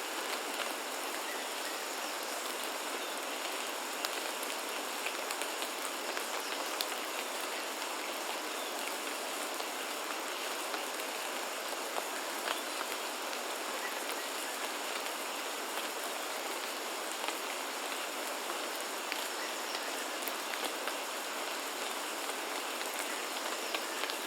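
Steady rain falling, with many small sharp drop ticks over an even hiss. A faint, steady high-pitched tone runs underneath.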